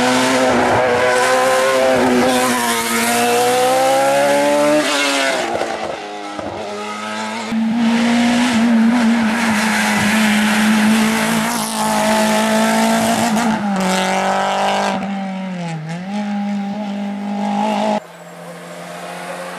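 Race car engine at high revs, its pitch climbing and dropping several times as it shifts through the gears under hard acceleration.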